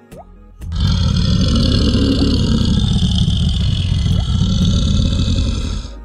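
A large wild animal's loud roar over background music. It starts about half a second in, holds for about five seconds and stops abruptly.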